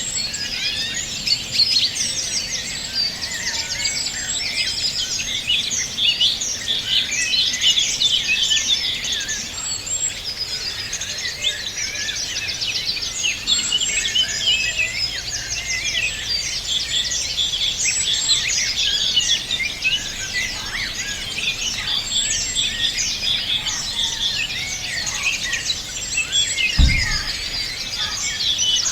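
A dense chorus of many small birds singing at once, with overlapping chirps, trills and whistles. A brief low thump comes near the end.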